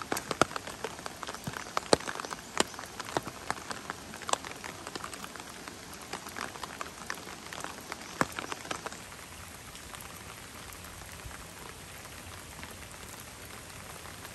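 Heavy rain falling, with many sharp drops striking close by for the first nine seconds or so, then a steadier hiss of rain.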